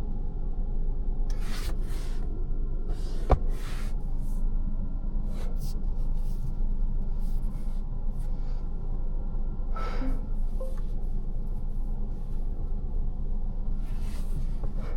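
Steady low rumble inside the Lancia Ypsilon's cabin, with light rustling and handling sounds now and then and a sharp click about three seconds in.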